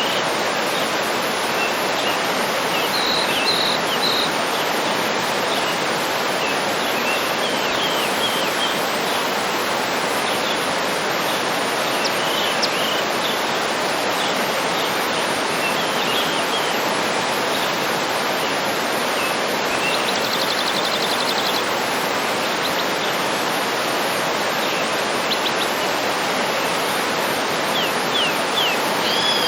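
Waterfall rushing in a steady, even roar of water, with birds chirping now and then over it and a short rapid trill about two-thirds of the way through.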